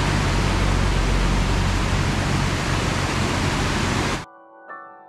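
River water rushing steadily, a dense even roar that cuts off abruptly about four seconds in, giving way to soft piano notes.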